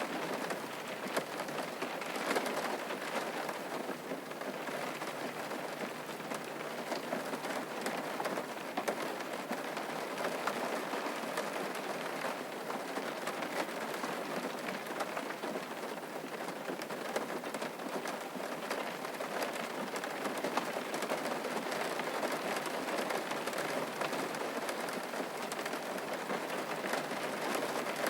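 Steady rain falling on a surface, a constant hiss dense with fine drop ticks.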